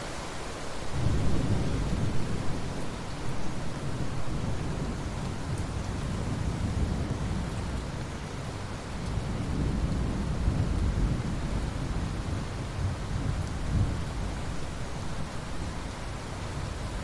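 Steady hiss of rain falling on ocean water. Under it, a low rumble comes in about a second in and rolls on in swells.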